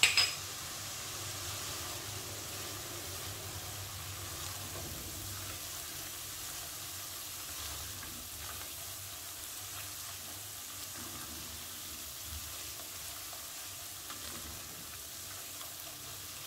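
Onion, ginger-garlic and spice paste sizzling steadily as it fries in butter and oil in a nonstick pot, with a silicone spatula scraping and stirring through it. There is a short knock right at the start.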